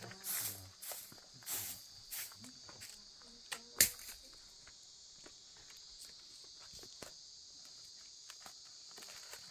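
Steady high-pitched insect chirring throughout, with a few short scuffing noises in the first couple of seconds and one sharp click about four seconds in.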